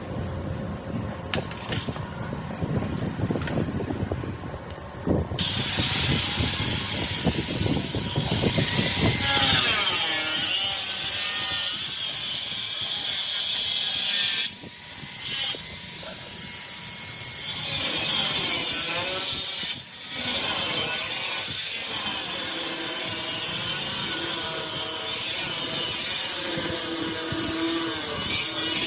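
A power tool working metal. A low rumble with knocks gives way, about five seconds in, to a high whine that wavers in pitch as the load changes, dipping briefly a couple of times.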